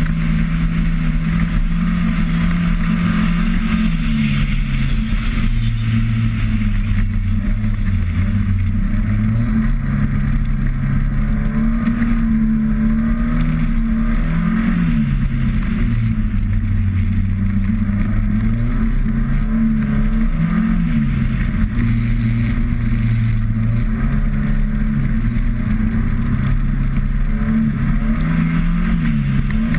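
Car engine driven hard from inside the car, its pitch climbing and dropping again and again as it revs up through the gears and backs off for corners, over a steady hiss.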